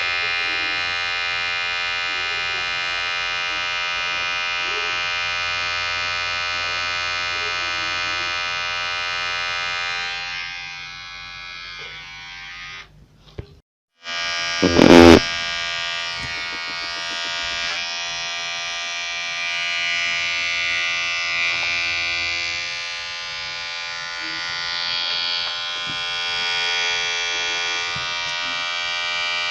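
Electric hair clipper buzzing steadily. The buzz fades about a third of the way in and stops briefly near the middle. A loud knock follows as it starts again, and it then buzzes on with its tone wavering.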